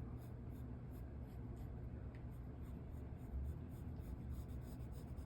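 Pencil drawing on paper: a run of short, faint scratching strokes over a low steady hum.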